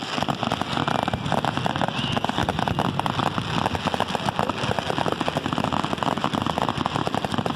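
Fireworks crackling: a dense, unbroken rattle of many small rapid pops at an even level.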